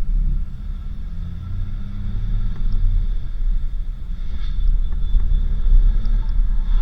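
A 4x4 vehicle driving on a dirt road, giving a steady low rumble with a few light knocks and rattles.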